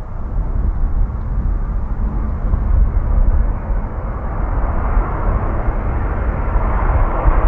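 Airliner jet engines running, mixed with low wind rumble on the microphone, growing somewhat louder in the second half.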